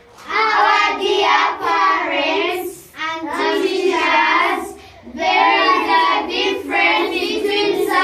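Young children singing together in unison, in three sustained phrases with short breaks between them.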